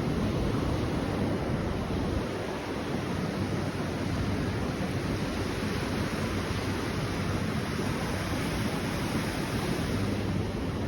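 Steady rushing noise of wind buffeting the microphone of a bicycle rider in the rain, with no distinct events.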